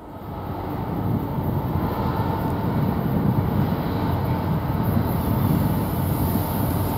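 Norfolk Southern diesel freight train rolling past, a heavy low rumble of locomotive engines and steel wheels on rail that swells over about the first second and then holds steady.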